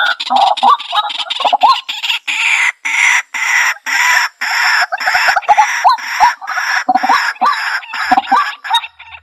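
White-breasted waterhen calling: a loud, rapid series of harsh, repeated croaking notes, about three a second.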